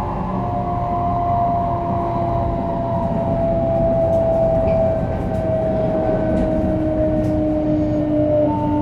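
Shinkansen 500 Series train running, with the whine of its Toshiba GTO-VVVF traction inverter over the steady rumble of the car. The whine's tones slowly fall in pitch as the train slows, and a new higher tone comes in near the end.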